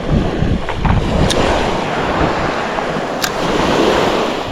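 Wind buffeting the microphone over the wash and slosh of sea water around a kayak, with two brief sharp ticks about two seconds apart.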